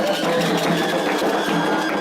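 Fast, steady percussion music of a Candomblé ceremony, dense drum and wood-block-like strokes in an even rhythm.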